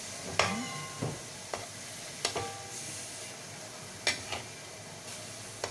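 Boneless chicken kebab pieces sizzling in butter in a pan, with about six sharp, briefly ringing knocks of a utensil against the pan as the pieces are turned.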